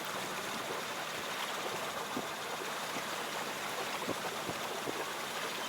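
Steady rushing and hissing of water along the hull of a Pacific Seacraft Dana 24 sailboat moving through the sea.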